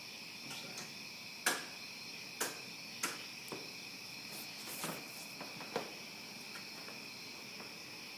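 Steady high insect chorus, like crickets calling, with about five sharp knocks or taps scattered through, the loudest about a second and a half in.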